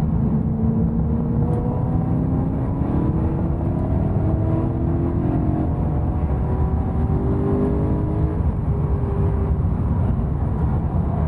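BMW E92 M3's V8 engine running hard under load over heavy road and wind noise, its pitch climbing slowly and dropping back several times.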